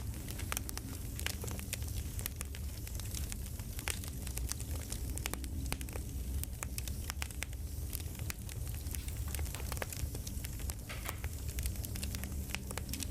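Crackling campfire: irregular snaps and pops of burning wood over a steady low rumble.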